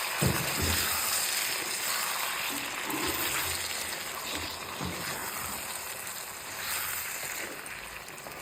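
Chicken curry with freshly ground sesame paste being stirred in a hot kadai, the spatula scraping and churning through the wet, sizzling mixture, with a sharp knock about a quarter of a second in.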